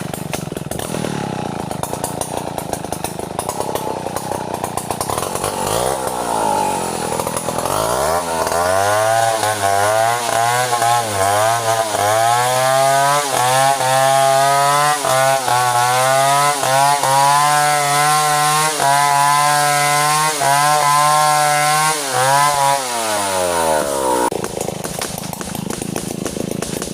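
Chainsaw idling, then revving up and running at full throttle for about fifteen seconds with its pitch wavering as it cuts through bintangor timber, before dropping back to idle near the end.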